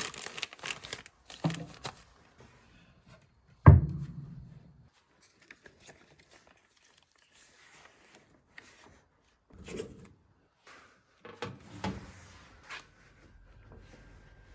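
Groceries being handled and put away: packaging rustling at the start, then one loud thump about four seconds in, followed by scattered quieter knocks and rustles.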